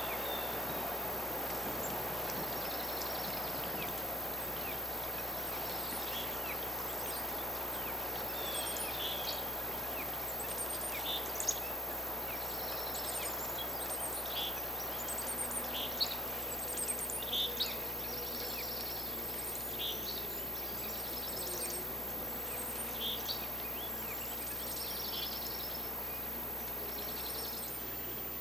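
Red crossbills giving many short, high chirping calls, scattered and overlapping, over a steady hiss.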